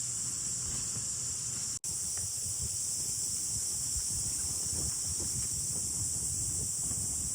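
Steady, high-pitched chorus of insects trilling without a break, with wind buffeting the microphone as a low, gusty rumble that picks up after about two seconds. The sound drops out for an instant just before that.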